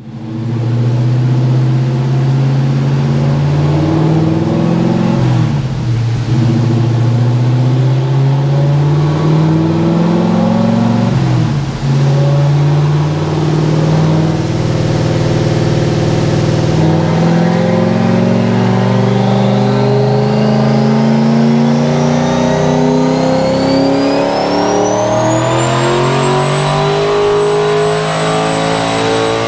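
Turbocharged 4.6-litre V8 of a 2003 Mustang Cobra running at 26 psi boost on a dyno pull: engine speed dips sharply twice, then climbs steadily. A high turbo whine rises in pitch with the revs and levels off near the end.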